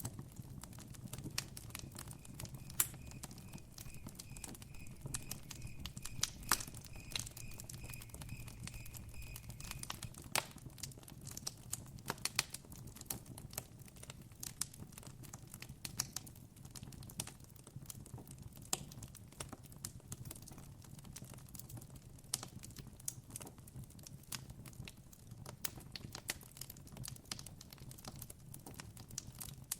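Wood campfire crackling, with frequent sharp pops throughout over a low steady rumble. For the first ten seconds or so a cricket trills in a steady pulsed tone.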